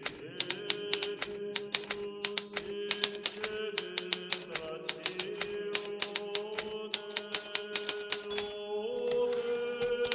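Hermes Baby portable typewriter being typed at a steady pace, its keys striking several times a second, over soft background music of sustained tones.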